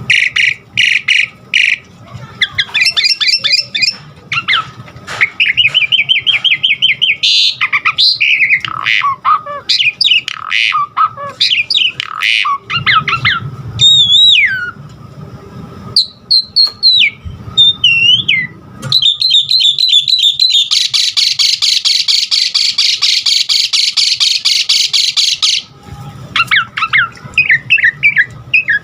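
Asian pied starling (jalak suren) singing a varied song full of imitated calls. It mixes rapid chattering notes and whistles sliding down in pitch with a long harsh rattle of about four seconds past the middle.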